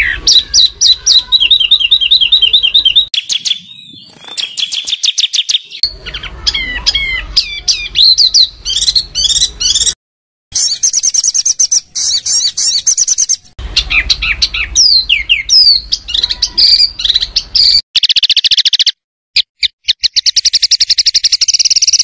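Songbird tutor recording: loud, rapid, harsh songbird calls, with fast repeated notes and trills spliced together from several clips that cut off abruptly.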